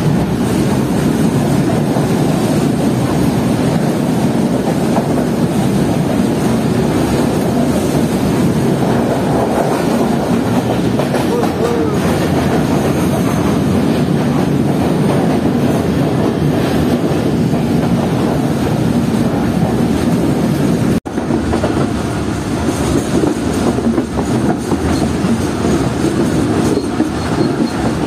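Freight train running along the line, heard from its guard van: a steady loud rumble of wheels on rail with rhythmic clickety-clack over the rail joints. There is a brief break in the sound about three-quarters of the way through.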